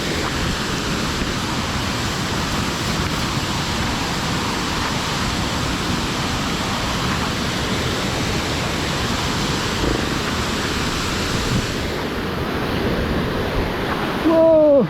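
Steady rushing noise of a waterfall with wind buffeting the microphone. Near the end comes a brief, loud, falling vocal cry.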